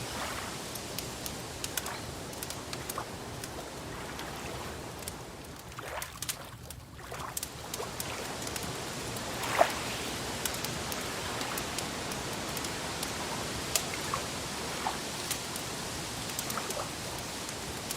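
Wood fire crackling, its scattered sharp pops over a steady hiss of rain; the loudest pop comes about ten seconds in.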